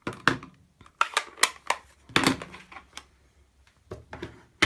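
Crafting supplies being handled and put away on a worktable: a run of sharp plastic clicks and taps in small clusters, ending in one loud click.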